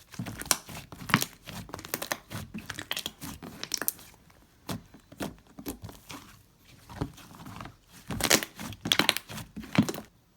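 Slime being squeezed, pressed and pulled apart by hand, giving a dense run of sticky clicks, pops and crackles, loudest in a burst near the end before stopping abruptly.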